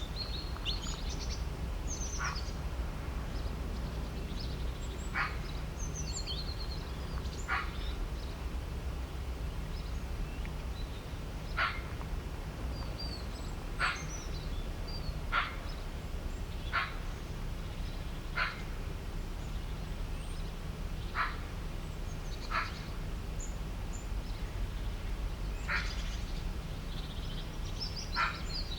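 Birds calling: one short, sharp call repeats about a dozen times at irregular gaps of one to three seconds, with higher twittering chirps near the start and end, over a steady low rumble.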